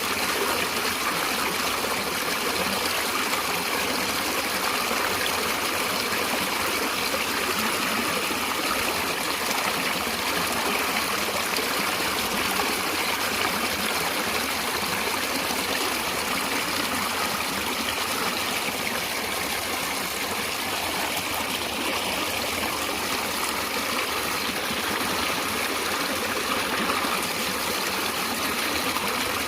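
Natural stream water running steadily.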